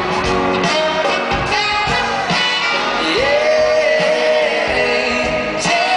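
Live band music with singing, heard from the audience in a large hall. A sung note rises into place about halfway through and is held for a couple of seconds.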